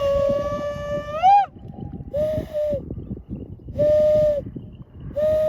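An animal's long, high whining cries at a steady pitch: one long cry that rises at its end, then three shorter ones spaced about a second and a half apart.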